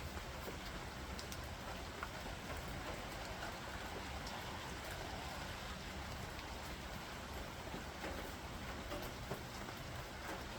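Steady rain falling, an even hiss with scattered sharp ticks of single drops striking nearby surfaces.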